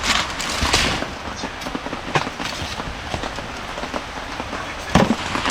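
Heavy rain falling, a dense crackle of drops striking, with a louder knock about five seconds in.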